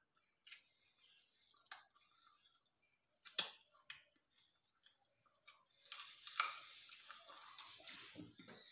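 Faint eating sounds: people chewing mutton off the bone and eating rice by hand. There are scattered short smacks and clicks, then a denser crackly stretch from about six seconds in.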